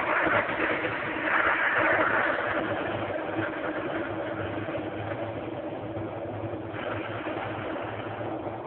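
Steam hissing from a Wagner one-gallon wallpaper steamer as it is played on the frost in a refrigerator freezer to melt the ice. The hiss swells and eases in surges over a steady low hum.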